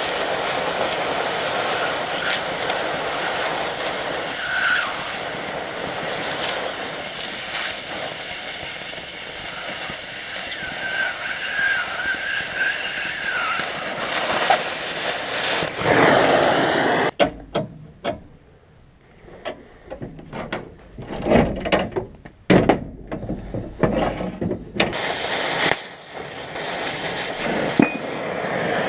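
Oxyacetylene cutting torch hissing steadily as it cuts through thick steel plate. About 17 s in the steady hiss stops, and short irregular sounds follow.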